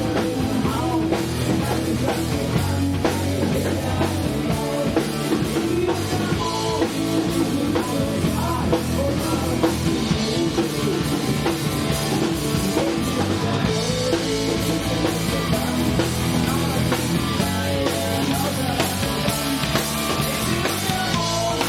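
Live rock band playing a punk-rock song: drum kit beating steadily under electric guitars.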